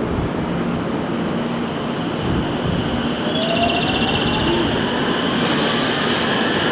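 Electric commuter train pulling out of the station: the rumble of its wheels on the rails and the whine of its traction motors rising in pitch as it speeds up. A short hiss comes about five and a half seconds in.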